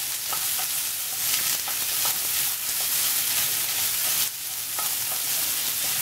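Chopped onions sizzling in hot coconut oil in a wide pan, with a wooden spatula scraping and clicking against the pan as they are stirred. The sizzle dips briefly a little past four seconds in.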